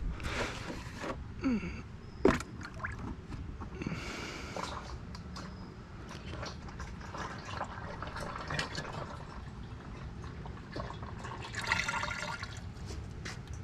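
Used engine oil being poured into a container: a steady trickle and dripping, with a few knocks in the first couple of seconds.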